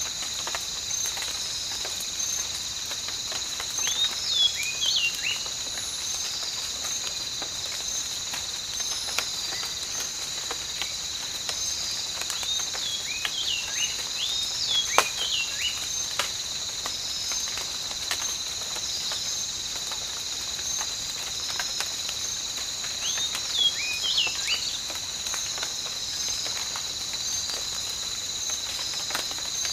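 Tropical rain ambience: light rain pattering under a steady, high-pitched chorus of insects. Three times, about 4 s, 13 s and 24 s in, an animal gives a short run of quick falling calls.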